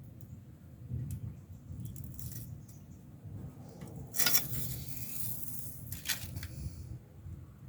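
Light clinks and rattles of a metal-and-rubber door weather strip being handled, with a louder rustle lasting about a second, about four seconds in.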